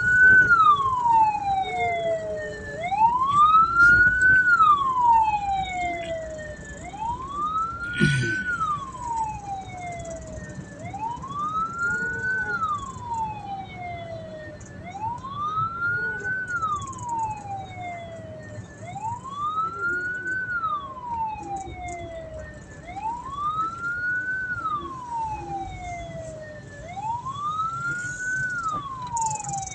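Hearse's wail siren sweeping up and falling back slowly in an even cycle about every four seconds. A single sharp knock comes about eight seconds in.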